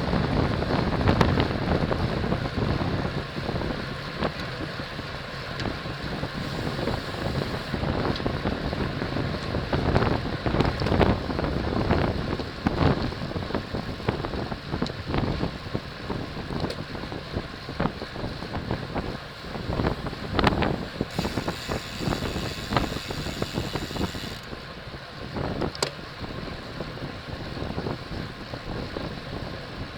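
Wind rushing over the microphone of a camera riding on a racing bicycle at speed, a steady rush broken by many short gusts. A brighter hiss joins for about three seconds past the middle.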